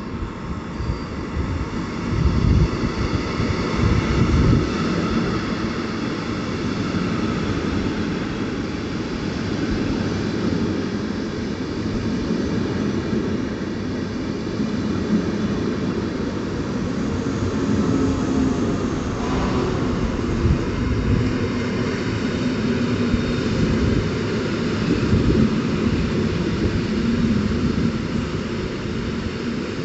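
Double-deck electric passenger train running past close along the platform: a loud, steady rumble of wheels on rails, with heavy thumps in the first few seconds. From about two-thirds in, a low steady hum rises under the rumble as a second electric multiple unit moves on a nearer track.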